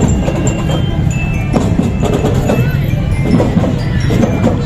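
School marching band playing: drums struck in quick succession, with short high glockenspiel notes ringing over them.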